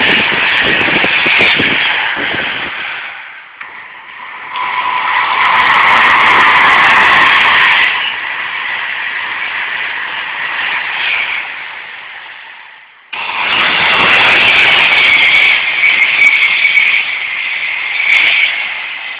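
Express passenger train running past a station platform at speed: a loud rush of wheels on rail and air, swelling and easing in waves, with a sudden surge back to full loudness about two-thirds of the way through.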